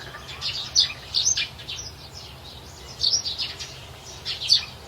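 Birds chirping: short, high chirps in quick clusters, one cluster every second or so.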